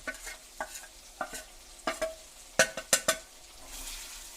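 Chicken and spices frying with a faint sizzle while a spoon or ladle stirs the pot, scraping and knocking against its sides in a string of sharp clicks, the loudest about two and a half to three seconds in.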